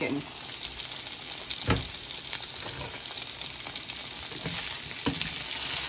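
Diced red potatoes and onion sizzling steadily in oil in a frying pan. Two light knocks come through, one about two seconds in and one near the end.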